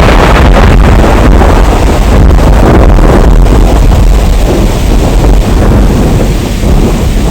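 Heavy rain under a long, loud roll of thunder, with sharp crackles in the first few seconds and a deep rumble that eases off near the end.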